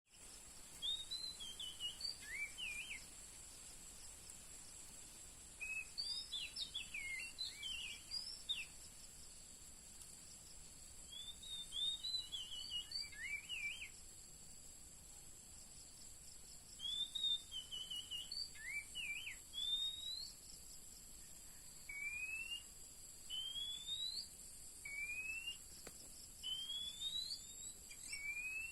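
Oriental magpie-robin calling: short bursts of varied whistled notes, then from about two-thirds in a run of single rising whistles about every second and a half. A steady high hiss runs behind.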